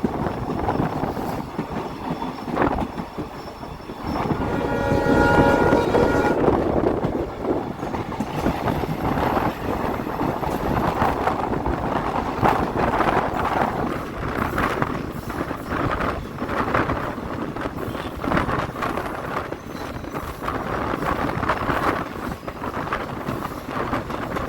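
Passenger train running with a steady rumble and wheels clicking over rail joints. About four seconds in, the WDP4B diesel locomotive's horn sounds for roughly three seconds.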